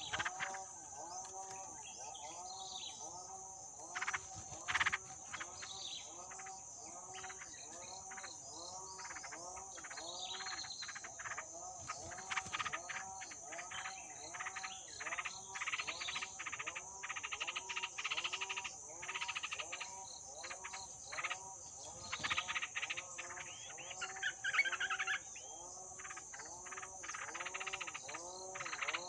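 A chorus of frogs calling, many overlapping, arched croaks repeating steadily at several pitches, over a steady high insect drone. Short bird chirps break in now and then, loudest about four seconds in and again near 25 seconds.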